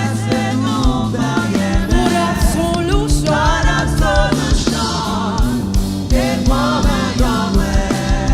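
Gospel praise music: singing over a band with bass and drums and a steady beat.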